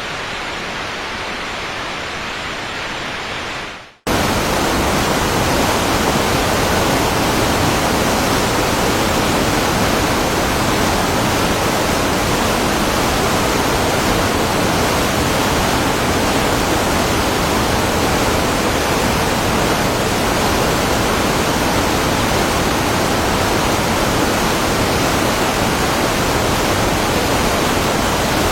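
Waterfall water rushing steadily. About four seconds in it fades out briefly, then comes back at once louder and fuller, the steady roar of another falls.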